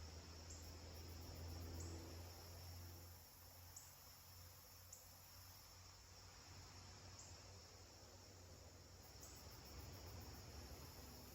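Faint night-insect chorus: crickets trilling steadily, with a short high chirp repeating about every second, over a low hum that eases after about three seconds.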